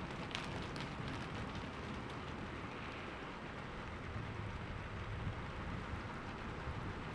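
Steady rain falling, with a low rumble of thunder swelling underneath about four to five seconds in.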